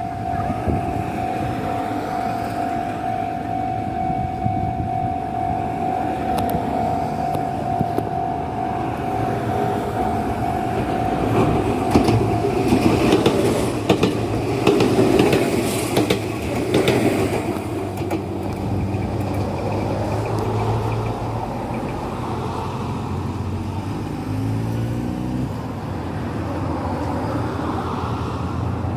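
Enoden (Enoshima Electric Railway) train crossing a level crossing. The crossing's warning bell rings steadily, then stops about thirteen seconds in, while the train's wheels clatter and click over the crossing and rail joints for several seconds. After it passes, waiting road vehicles idle and move off.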